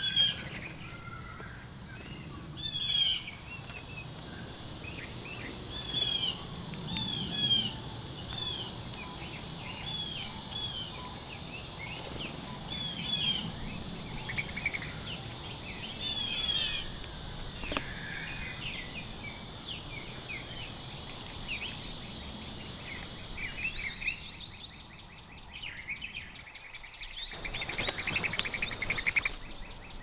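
Small birds calling: many short, repeated chirps over a steady high hiss. The hiss drops away about 24 seconds in, and a dense flurry of chirps comes near the end.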